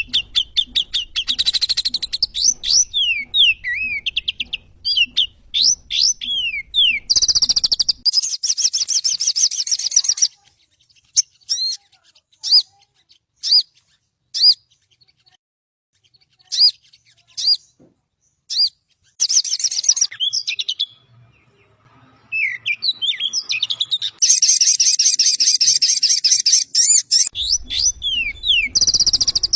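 Sogon (sogok ontong) songbird singing: fast, high chirps and twittering trills. Through the middle the song thins to single sharp chirps with gaps between them, then turns dense again near the end.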